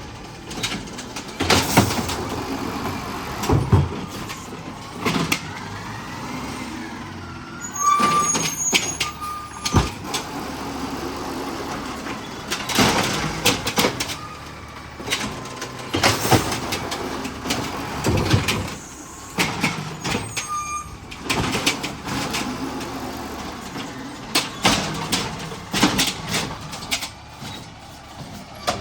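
Garbage truck running, with repeated knocks and clanks throughout.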